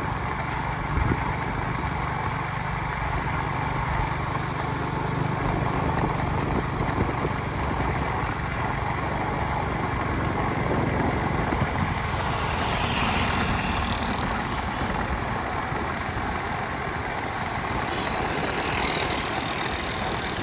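Steady engine and road noise of a moving vehicle, with a low hum, and two brief swells of high hiss about twelve seconds in and again near the end.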